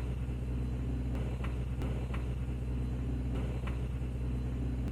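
A steady low mechanical hum, like a running engine, with a few faint ticks at irregular intervals.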